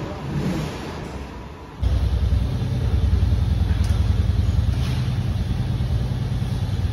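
Royal Enfield Hunter 350's single-cylinder engine running, a steady, pulsing low rumble that starts abruptly about two seconds in.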